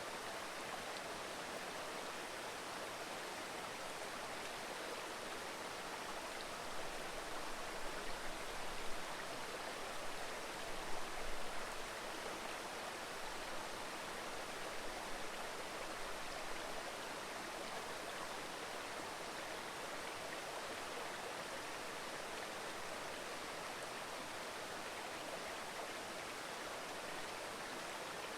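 Mountain river babbling over stones: a steady rush of running water. Brief low rumbles come in a few times, mostly between about 7 and 12 seconds in.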